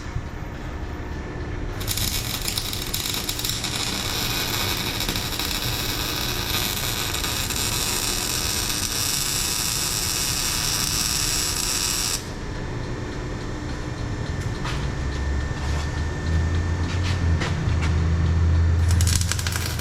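Shop tool noise from work on a car's exhaust: a steady hiss starts about two seconds in and cuts off suddenly about halfway through, then a low hum rises near the end.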